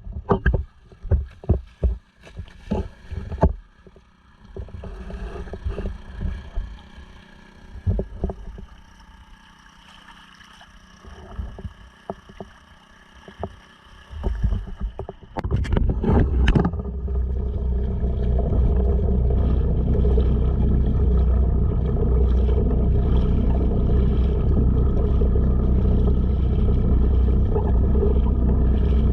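Honda 2.3 hp four-stroke outboard motor on a sea kayak, throttled back to a quiet idle, with a run of sharp irregular knocks in the first few seconds and again about fifteen seconds in. About sixteen seconds in it is throttled up and runs steadily and loudly.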